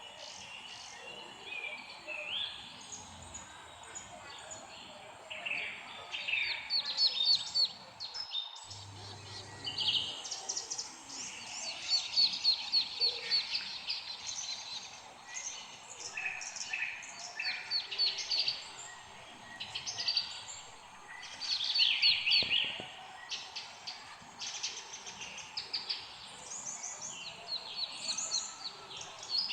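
Several songbirds chirping and singing in overlapping phrases of quick, high repeated notes and trills. The sound briefly cuts out about eight seconds in.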